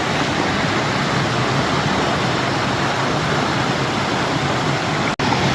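River water rushing, a steady even noise, broken by a momentary dropout near the end.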